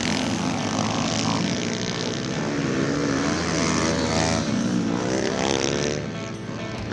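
Several small pit bike engines revving, their pitch rising and falling as the riders work the throttle and shift, with a steady engine drone underneath.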